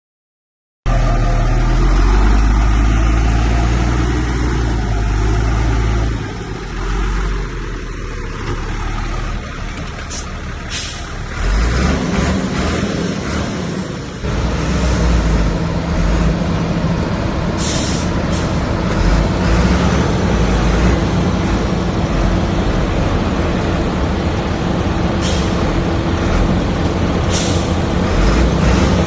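Heavy diesel earthmoving machinery, a bulldozer with dump trucks, running and working under load, starting after about a second of silence. The engine note shifts a couple of times, and several short sharp hisses or clanks cut through.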